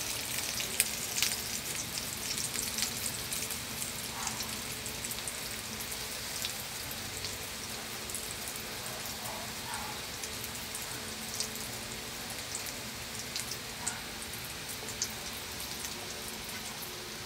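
Chicken nuggets frying in shallow oil in a pan: a steady sizzling hiss with scattered pops and crackles, a little busier in the first few seconds.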